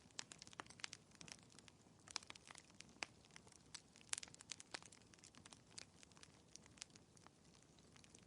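Quiet fireplace crackling: burning wood giving off irregular small pops and snaps, several a second, over a faint low hiss.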